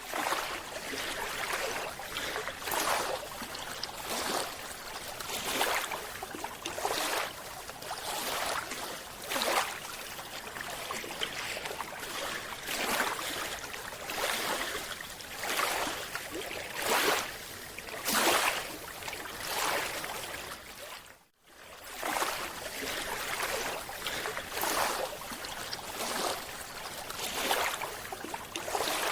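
Water rushing and bubbling in repeated surges, roughly one every second or two, with a short break a little over two-thirds of the way through.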